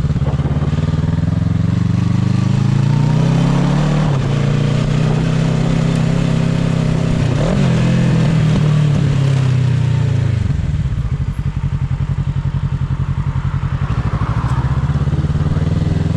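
Motorcycle engine running under way, its pitch climbing through the first few seconds and holding. About ten seconds in it drops to a low, evenly pulsing beat as the revs fall, then starts to rise again near the end.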